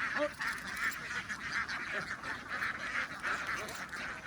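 A large flock of ducks calling all at once, a dense, continuous chorus of quacking.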